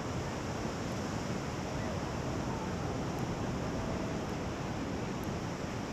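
Steady wash of sea surf breaking on a sandy beach, with wind noise on the microphone.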